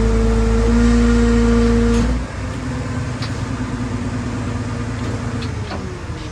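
Crane truck's engine running under load with a steady whining hum that drops off about two seconds in, then runs on lower, its pitch sliding down near the end.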